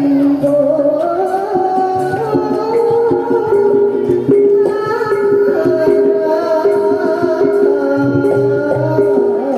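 Javanese jaranan gamelan music played loud through a sound system: held and sliding melodic notes with singing over steady drumming.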